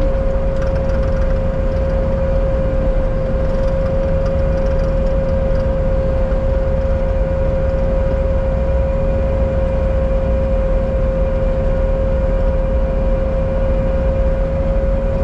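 Bobcat T77 compact track loader's diesel engine running steadily, a low rumble with a steady whine held at one pitch throughout.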